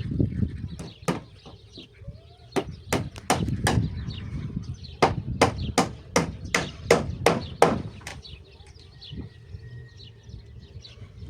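A series of sharp chopping strikes, about two to three a second, in several runs and stopping about eight seconds in.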